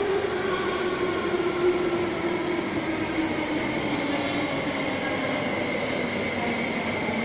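Electric metro train slowing on the platform track, its motor whine falling steadily in pitch over a constant rumble of wheels and running gear; a thin high squeal creeps in near the end.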